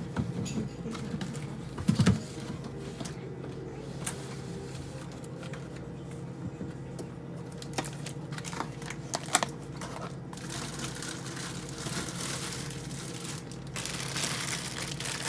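Household objects being handled: scattered knocks and clicks and some crinkling of packaging over a steady low hum, with one louder knock about two seconds in.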